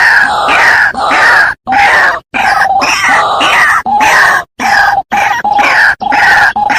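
White-breasted waterhen calling: loud, harsh notes repeated several times a second, broken by short sudden silences several times.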